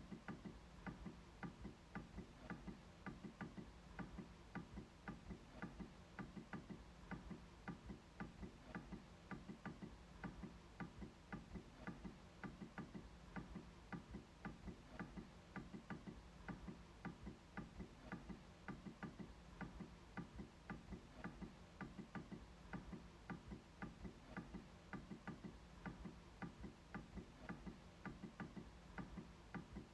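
MacBook trackpad being clicked over and over, a quiet, steady run of about three clicks a second.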